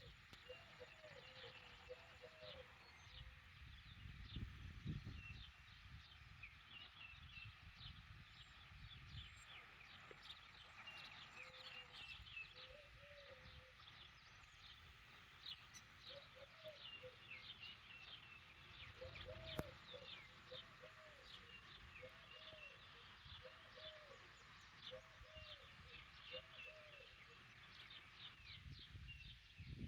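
Faint birdsong: low cooing calls repeated in short runs, with many quick high chirps over them.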